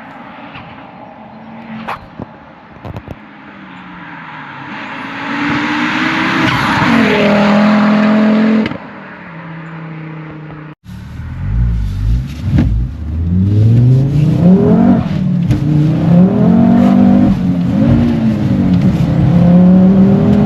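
Turbocharged five-cylinder engine of a tuned Mk2 Ford Focus RS accelerating hard, the revs climbing and then dropping at gear changes. About halfway through the sound breaks off abruptly and picks up again with the engine revving up and down repeatedly.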